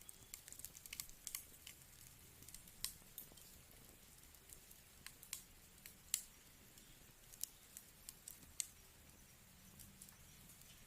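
Wood fire crackling softly: irregular sharp snaps and pops, a dozen or so, over a faint low hiss, the loudest pop about six seconds in.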